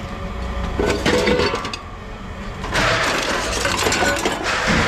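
Scrap metal clattering and clinking as loose pieces are tossed or dumped, a dense rattle lasting about two seconds from just past the middle.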